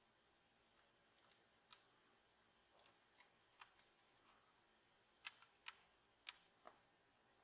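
A series of sharp, irregular clicks and snips of small handheld objects, in two clusters: one starting about a second in, another about five seconds in.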